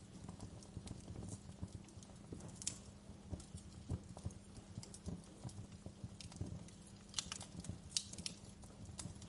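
Wood fire crackling: irregular sharp pops and snaps over a steady low rumble, with a cluster of louder snaps about seven to eight seconds in.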